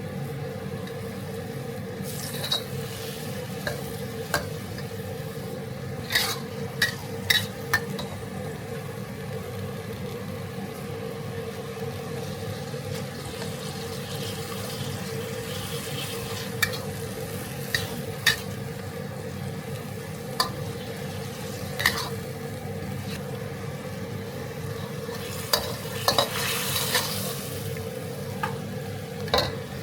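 A pork and basil stir-fry sizzling in a pan while it is stirred, with a spatula knocking and scraping against the pan now and then. A steady hum runs underneath.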